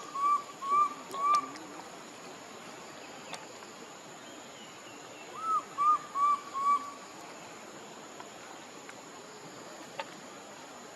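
An animal calling in two runs of four or five short, hoot-like notes, about three a second, the first run at the start and the second about five and a half seconds in.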